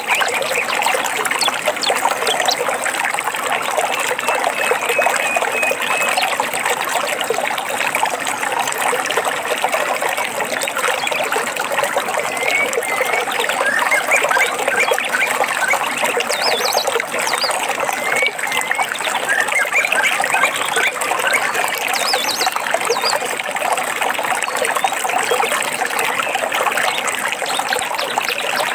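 Running water trickling and babbling steadily in a small forest stream, with birds singing short chirps and trills over it now and then.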